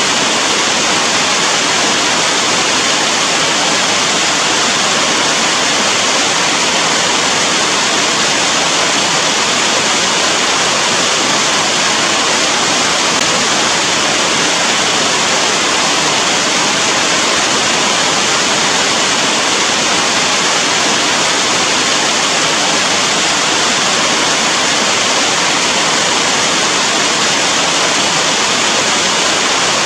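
Steady, dense rain: an unbroken hiss of falling water with no single drops or changes standing out.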